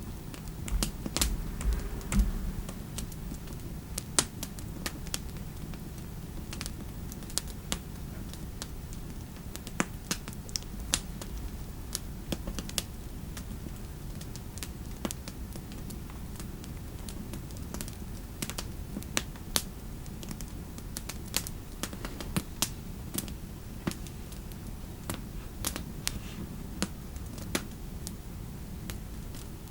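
Computer keyboard typing, keys clicking in irregular runs a few times a second with pauses, over a steady low fireplace ambience. A few louder knocks come in the first couple of seconds.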